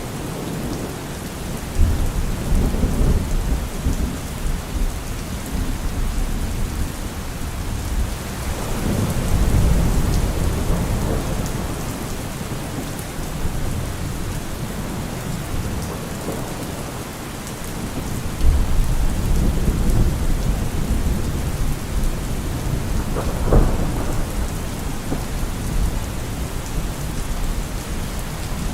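Heavy rain falling steadily on a car roof, with thunder rolling in low rumbles several times and a sharper crack of thunder near the end.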